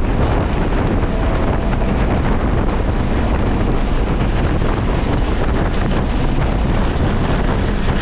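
Car driving at speed on a race track, with a steady rush of wind buffeting the microphone over the vehicle's running noise.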